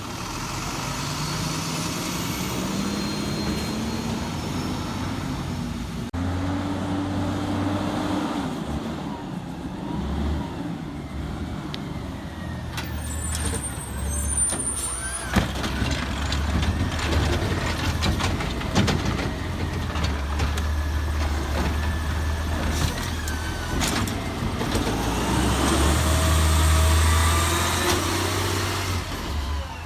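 Garbage truck engine revving up repeatedly as it works, with a hiss of air brakes around the middle, a sharp bang about halfway through and scattered clanks after it.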